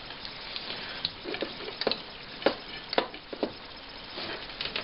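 Several light, sharp clicks and taps, scattered unevenly over a steady low hiss: handling noise of test leads and parts on a workbench.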